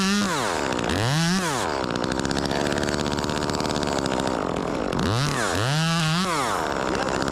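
Two-stroke chainsaw revved in short bursts, four times: twice near the start and twice near the end. Each time the pitch rises, holds briefly and falls back.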